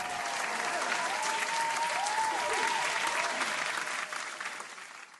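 Crowd applause with some cheering, a dense patter of clapping that fades out near the end: a reward sound for a right answer.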